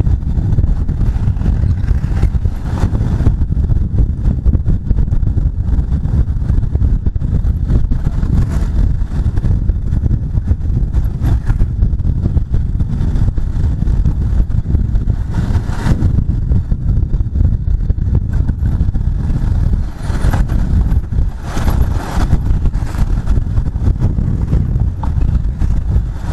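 Bajaj Pulsar 150's single-cylinder engine running while riding, heard under a steady low rumble of wind buffeting the microphone, with a few brief louder noises around the middle and near the end.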